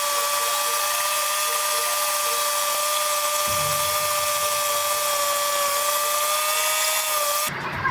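Sawmill saw running with a steady high-pitched whine over a hiss, holding one pitch. It cuts off suddenly near the end.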